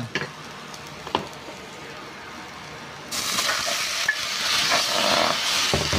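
Garlic, onion and ginger frying gently in oil in a stainless steel pan, with one sharp knock about a second in. About halfway through, a much louder sizzle starts as raw chicken pieces go into the hot oil, and it keeps frying.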